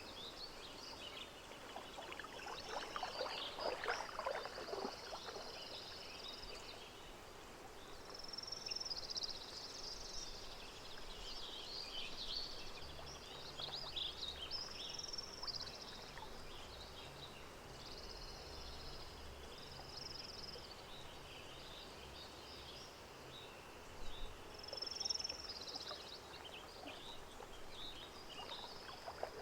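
Lakeside nature ambience: birds chirping over gentle lapping water, with a short burst of splashing a few seconds in.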